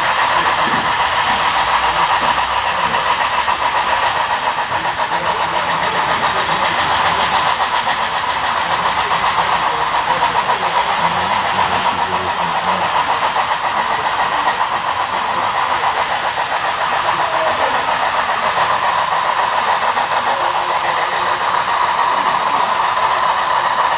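HO-scale model train running steadily, led by Big Boy and Challenger steam locomotives with a long string of freight cars, its wheels rolling on the track together with the locomotives' sound systems.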